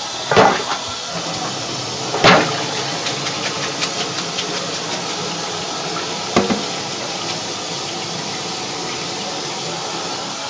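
Kitchen tap running steadily into the sink as cooked ground beef is rinsed in a strainer, with three clunks of cookware knocking against the sink, the loudest about two seconds in.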